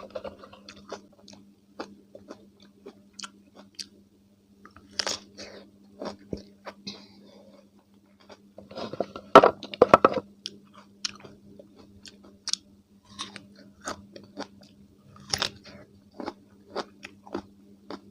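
Close-miked chewing of crunchy raw cucumber with mayonnaise: wet crunches and mouth clicks, with a loud burst of crunching bites about nine seconds in.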